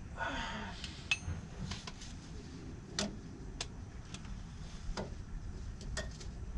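Metal parts clinking and knocking as a truck's transfer case is worked into place: a short scrape at the start, then about six sharp, separate clinks roughly a second apart, one with a brief metallic ring.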